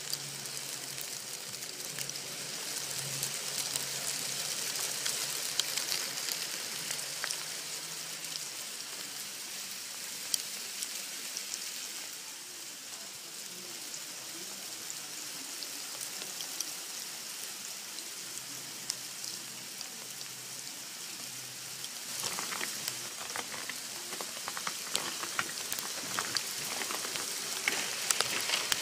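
Hail falling: a dense hiss of stones landing, with many sharp clicks from single stones striking hard surfaces. It grows heavier about three-quarters of the way through.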